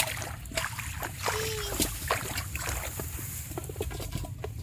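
Shallow paddy water splashing and sloshing in irregular bursts as fish are grabbed by hand, over a low rumble. A short high pitched call is heard about a second and a half in.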